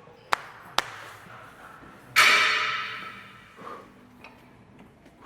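Two sharp clicks, then a loud metallic clang of gym weights about two seconds in, ringing and fading over a second or so.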